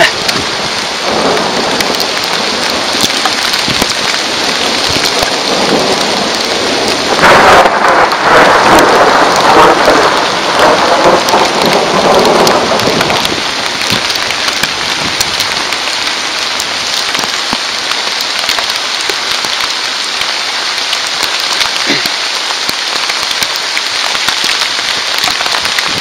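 Hail and driving rain pelting down, a dense hiss of countless small sharp impacts, swelling louder for several seconds from about seven seconds in.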